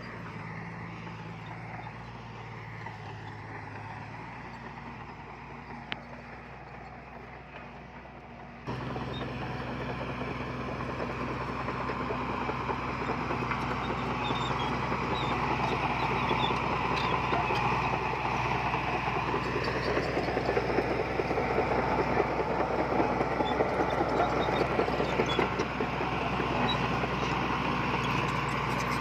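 Diesel engine of heavy earthmoving machinery running steadily; about a third of the way in the sound jumps abruptly to a louder, busier engine noise that builds further over the following seconds.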